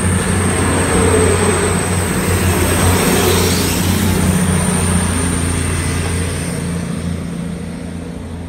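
A train passing close by: loud running noise with a steady low hum, fading gradually over the last few seconds as it moves away.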